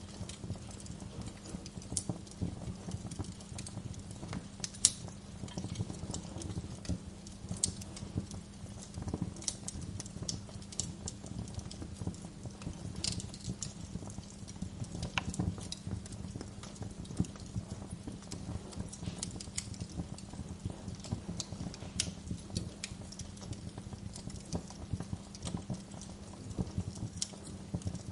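Wood fire crackling, with frequent sharp snaps over a steady low rumble; the loudest snap comes about five seconds in.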